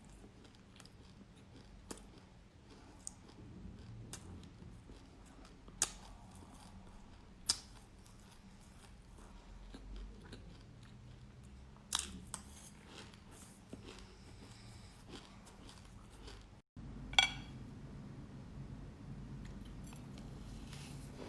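Close-up chewing of black sesame seeds: quiet crunching with a handful of sharp, separate clicks.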